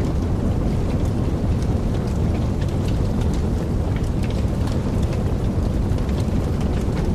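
Wood fire burning in a fireplace: a steady low rumble of the flames with frequent small, sharp crackles and pops.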